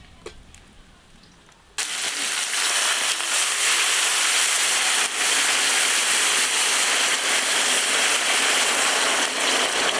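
Hot oil in a cooking pot suddenly starting to sizzle loudly about two seconds in, as food goes into it, then holding a steady hiss.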